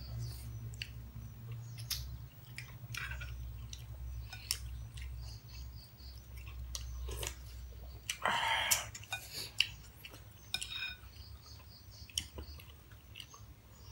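People chewing and eating moringa pods and curry: a run of small, sharp wet mouth clicks, with a louder brief noise about eight seconds in.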